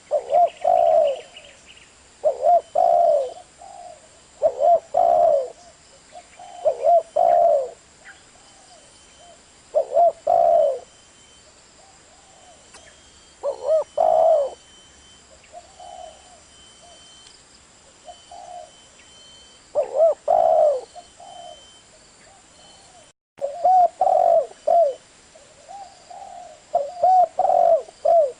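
Spotted dove cooing: repeated short phrases of two or three coo notes, each phrase about a second long, coming every couple of seconds with a few longer pauses between.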